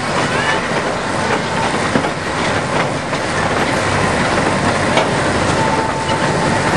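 A 2 ft 6 in narrow-gauge train running along the track, with a steady rumble and scattered clicks and knocks from the wheels. A thin, high squeal is held for about a second near the end.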